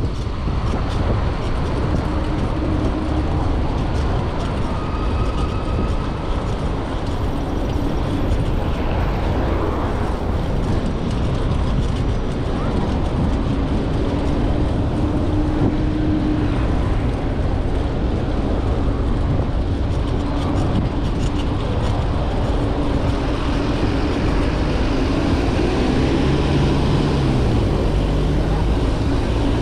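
Steady wind noise on the microphone of a moving bicycle, with city traffic passing.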